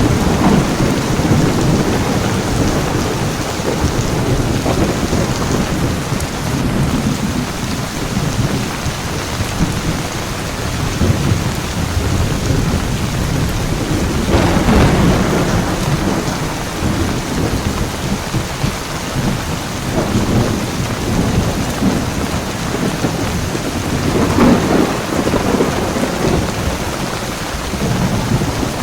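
Heavy rain falling steadily, with rolls of thunder swelling at the start, about halfway through and again near the end.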